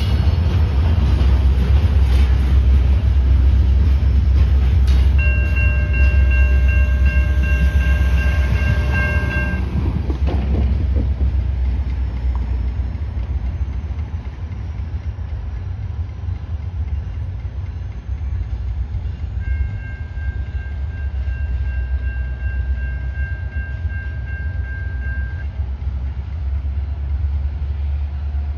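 Freight train hopper cars rumbling past and moving away, the low rumble easing off about halfway through. A train horn sounds twice, a held chord of about four seconds early on and a fainter, longer one of about six seconds later.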